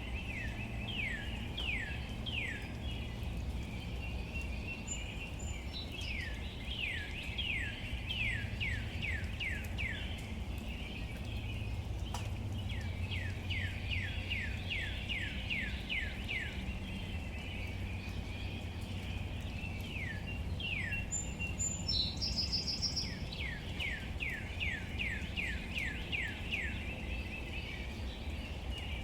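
Steady rain on leaves. A bird calls over it in repeated runs of quick downward-sliding notes, about three or four a second, each run lasting a few seconds. There is a single sharp tick about halfway through.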